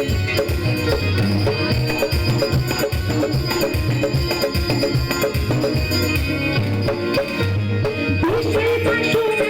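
Instrumental Bengali kirtan music: fast, steady hand-drum strokes with rattles and sustained keyboard tones. A new melodic line rises in near the end.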